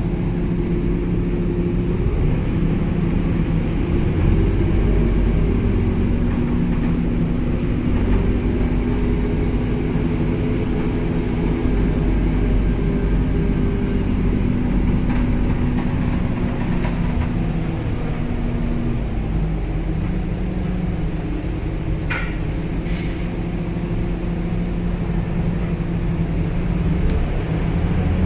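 Scania K270UB city bus heard from inside the cabin while driving: a steady engine and road drone whose pitch eases down about two-thirds of the way through, with two brief rattles or clicks near the end.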